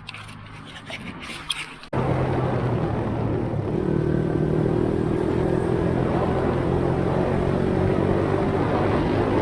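A vehicle engine idling with a few clicks. About two seconds in, the sound jumps suddenly to a louder, steady engine running under way, with a rushing noise around it.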